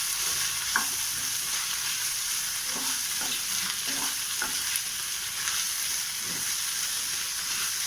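Onions sautéing in melted butter, sizzling steadily, with a few faint knocks and scrapes of a spoon stirring in the pan.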